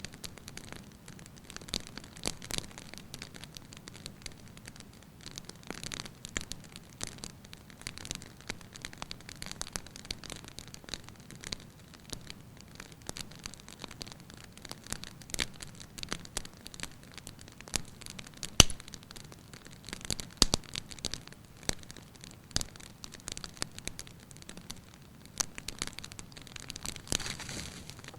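Wood fire burning in a fireplace, with frequent irregular crackles and pops from the burning firewood over a soft hiss; one sharper pop stands out near the middle.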